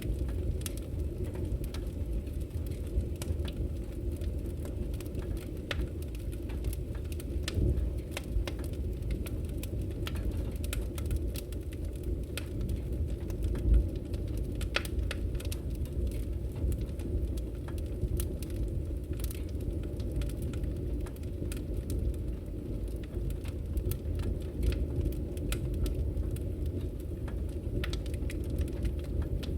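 Wood fire burning in a fireplace: a steady low rumble with frequent, irregular crackles and pops of the firewood.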